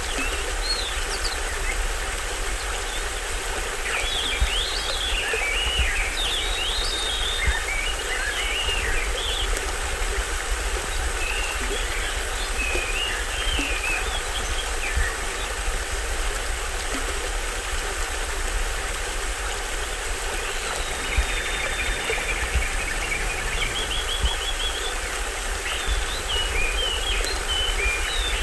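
Small waterfall on a stream, running steadily. Birds chirp and call over it in several short spells.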